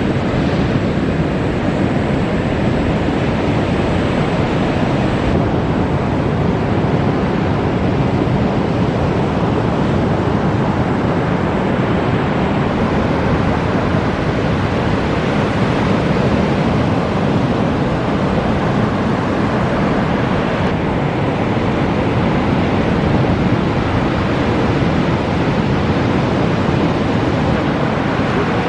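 Steady wash of ocean surf breaking on a reef, with wind noise on the microphone.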